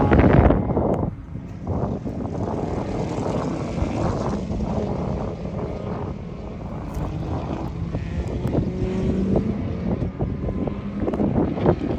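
A race car's engine passes at speed, loudest in the first second, then dropping away to a steady distant drone. The sound grows louder again near the end as a car approaches.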